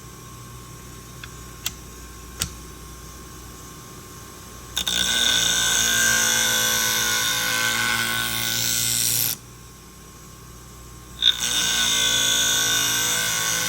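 Scissor blade ground against a spinning 240-grit diamond wheel on a Twice As Sharp scissor sharpener, in two loud gritty passes: one from about 5 to 9 seconds in, and another from about 11 seconds on. Between the passes only the sharpener's motor hums, and two light clicks come early on.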